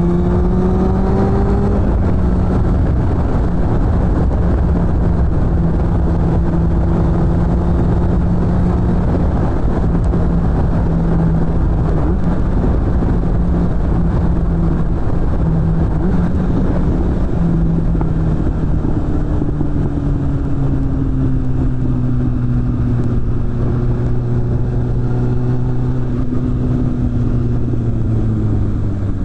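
Suzuki GSF600 Bandit's inline-four running through a BOS aftermarket exhaust while riding at steady revs. About two-thirds of the way through the revs fall off and settle lower, with a further easing near the end.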